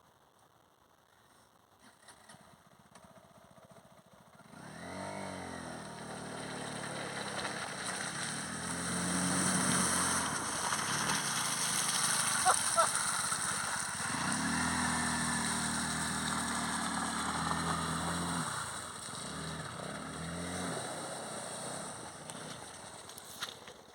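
SYM motorcycle engine coming in about four seconds in and revving up and down as it pushes through deep water, with a steady rushing hiss. It eases off and fades near the end.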